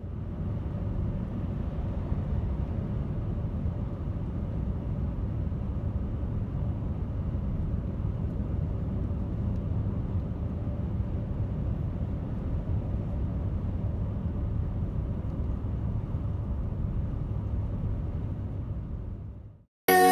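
A steady low rumble of noise with no clear tones. It fades in at the start and cuts off abruptly just before the end.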